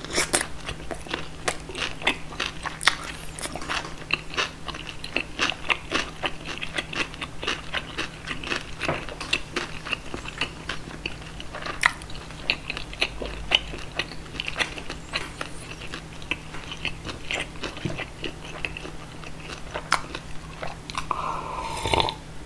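Close-miked chewing of a mouthful of schweinshaxe (roast pork knuckle), a fast run of crisp crunches and wet mouth clicks. Near the end comes a swallow of water from a glass.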